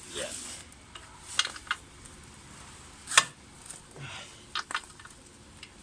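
Wrench and metal tools clinking and scraping on the steering rack's 18 mm mounting bolts, with a few sharp metallic clicks, the loudest about three seconds in.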